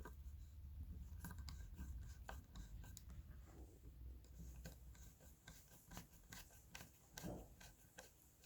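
Faint, irregular clicks and light scrapes of small parts and tools being handled while a subwoofer is taken apart, over a low steady hum.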